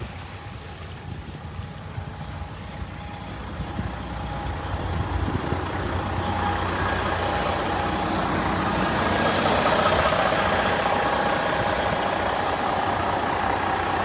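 Rushing water from a sheared-off fire hydrant, growing steadily louder over the first several seconds and then holding, with a vehicle engine running under it.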